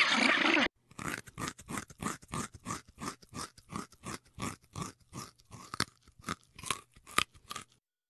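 A rabbit chewing, a run of short dry crunches several a second. A louder, dense sound cuts off abruptly under a second in.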